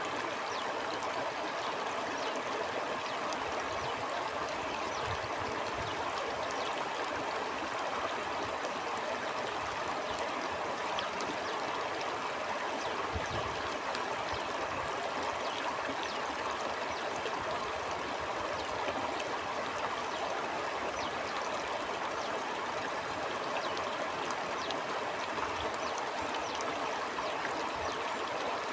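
Stream water flowing steadily over rocks, a constant rushing and gurgling with small splashes. Now and then a brief low rumble swells up, around five seconds in and again around thirteen seconds in.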